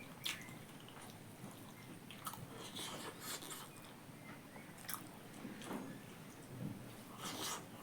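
Close-miked mouth sounds of a person chewing pork, with scattered wet smacks and crunchy clicks.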